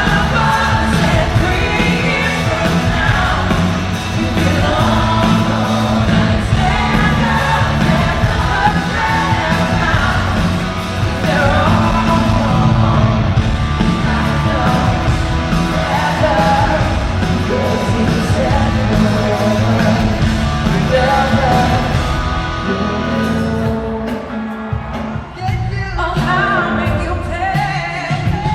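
Live pop-rock concert: full band playing with a woman singing lead, loud and echoing in a large arena, recorded from the audience. The music thins out briefly near the end before the band comes back in.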